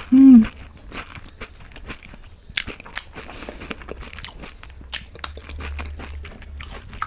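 A short, loud hummed "mmm" of enjoyment right at the start. Then close-miked crunching and chewing of dahi golgappa, crisp puri shells filled with yogurt and green chutney, as a run of sharp crackles and mouth clicks.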